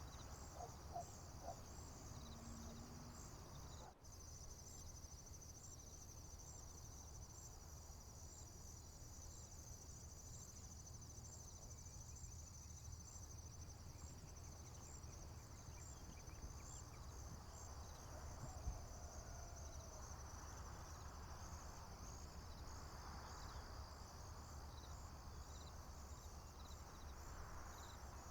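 Crickets chirping in a faint, steady, high-pitched chorus of evenly repeating pulses, with a fine trill for several seconds early on. A faint low rumble runs underneath.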